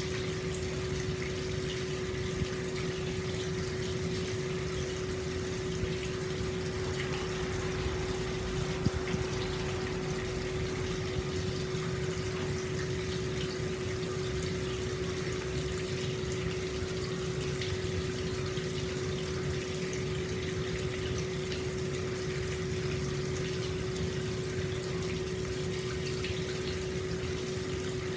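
Hot spring water pouring steadily into an open-air bath, an even splashing rush with a constant low hum under it. There is one small click about nine seconds in.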